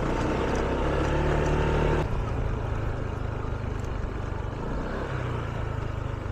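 Motor scooter running at riding speed, a steady low engine hum under a rushing noise. About two seconds in, the engine note and overall loudness drop a little and stay lower.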